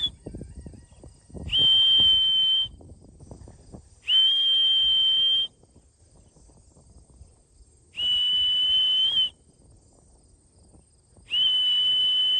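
Four long, steady, high-pitched whistle blasts, each a little over a second, blown to call racing pigeons down to the loft.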